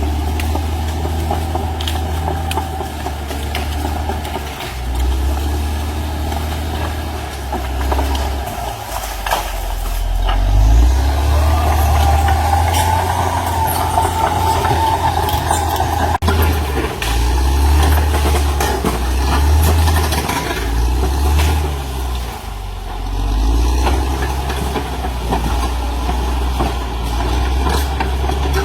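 Caterpillar D6R XL bulldozer's diesel engine working under changing load, its note rising and falling repeatedly, with scattered knocks and clanks.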